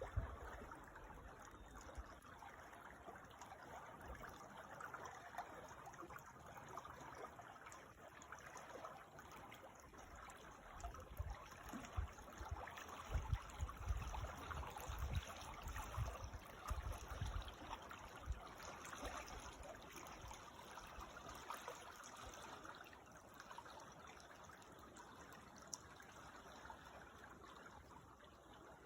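A creek trickling and burbling over stones, a faint, steady running of water. A few low rumbles come through near the middle.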